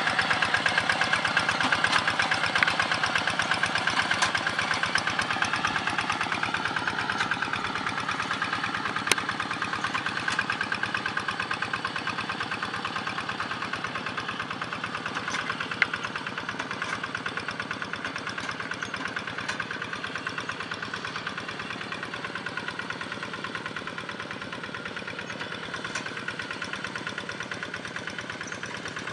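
Hand tractor's single-cylinder engine running with a fast, even chugging that slowly grows quieter, with two sharp clicks along the way.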